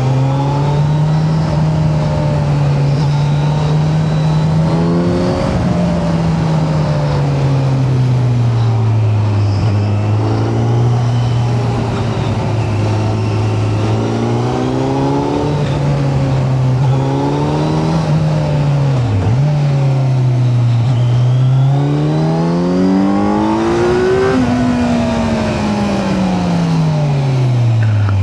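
Kawasaki Z900's inline-four engine pulling under the rider, its revs rising and falling with the throttle, with a sharp brief dip in revs about two-thirds of the way through. Near the end the revs climb steadily for a few seconds, then fall away as the throttle is eased off.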